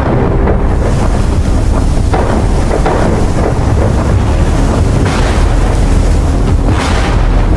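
Storm ambience: strong wind and rough sea over a deep, steady rumble, with two louder rushing surges about five and seven seconds in.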